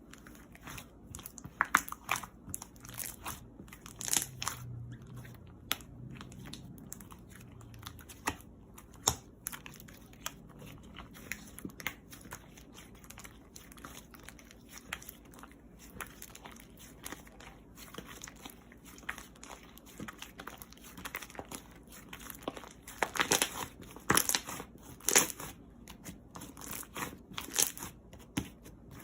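Close-up crinkling and crunching: a run of sharp crackles and clicks, with a louder, denser cluster near the end.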